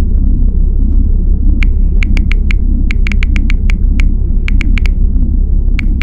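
Loud, steady low rumble of a car's engine and road noise heard inside the cabin while driving, with scattered sharp clicks through the second half.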